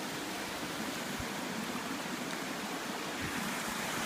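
Steady rush of water falling over a waterfall.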